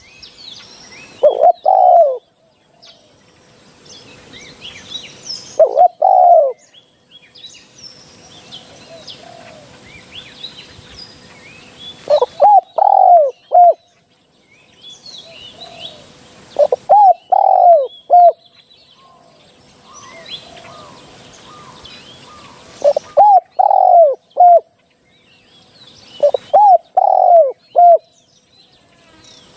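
Spotted dove cooing. It gives about six phrases of two to four low notes each, a few seconds apart, with faint chirps of small birds in between.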